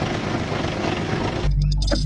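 A dense, noisy wash of music and sound that cuts off sharply about one and a half seconds in, giving way to a low steady engine hum with sharp clicks.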